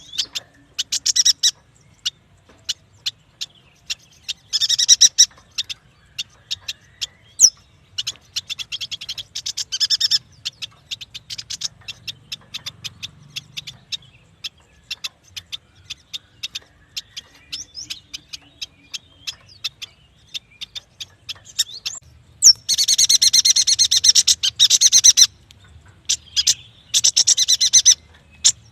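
Yuhina calling: scattered sharp high ticks and several bursts of fast, dry chattering trills, the longest about two-thirds of the way through.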